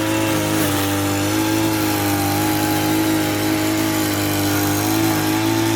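Small petrol engine of a grass-cutting machine running steadily at high speed while mowing, its pitch wavering slightly.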